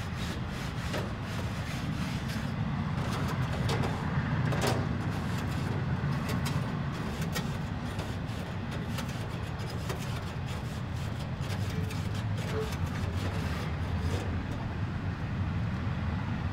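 Passing train: a steady low rumble, louder than the talk around it, with irregular clicks and scrapes over it.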